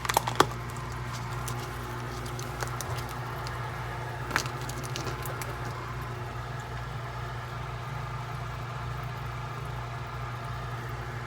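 Small handling noises: a few sharp clicks in the first half-second and another about four seconds in, with light rustling over a steady low hum.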